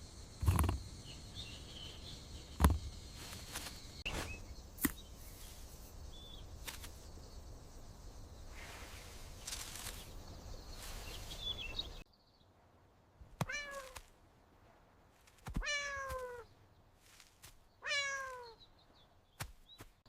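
Outdoor background with a steady high insect tone and a few sharp knocks. About twelve seconds in it cuts to a quiet room, where a cat meows three times, each meow falling in pitch.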